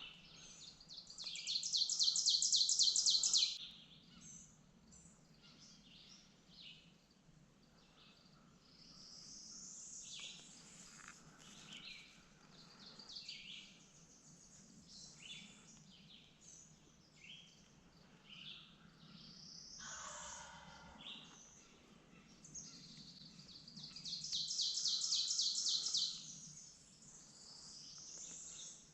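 Songbirds singing, with a loud, rapid, high trill lasting about two seconds near the start and again near the end, and scattered shorter calls between.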